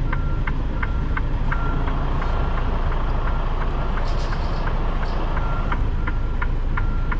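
Freightliner Cascadia semi truck's diesel engine running low and steady while it reverses, with a repeating high beep from its reverse alarm. A short hiss of air comes about four seconds in.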